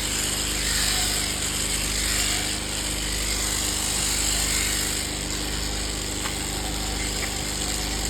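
Electric shearing machine running steadily, a constant motor-driven buzz with a high whirr.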